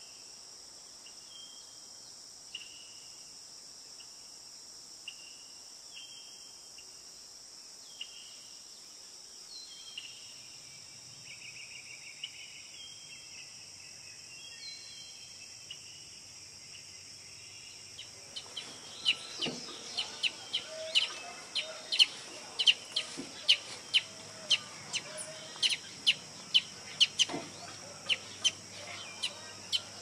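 Birds calling over a steady high hiss: short falling notes repeat every second or two. About eighteen seconds in, loud sharp chip calls take over, two or three a second.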